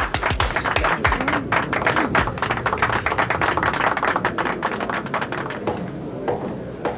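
Closing flourish of a flamenco-style stage number: a rapid run of sharp percussive taps, several a second, over the band's music. The low notes stop about a second in, and the taps fade away around six seconds in.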